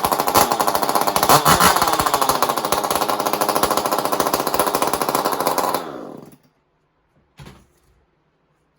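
Echo CS-400 40 cc two-stroke chainsaw running loud with its restrictive muffler gutted, revved up once about a second and a half in. About six seconds in it is shut off and winds down, and a single short knock follows about a second later.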